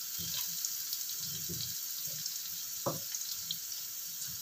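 Tempeh cubes sizzling in hot oil in a wok, a steady hiss, with a few soft knocks as the pieces are turned. They are being fried briefly until lightly browned.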